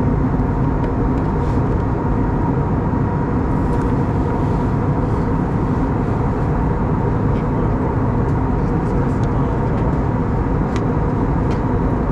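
Steady cabin noise inside an Airbus A320neo in flight: a constant rush of airflow and the hum of its CFM LEAP-1A turbofan engines, with a faint steady tone above it.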